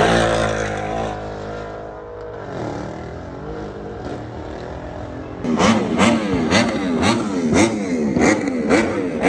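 Car engine being revved. A high rev dies away over the first couple of seconds and the engine runs lower. Then, about five and a half seconds in, it is blipped up and down rapidly, about two revs a second, with a sharp pop at each blip.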